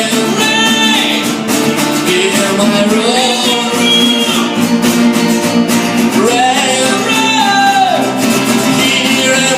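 Acoustic guitar playing with a singer's voice holding long notes, sliding up into a long held note about six seconds in.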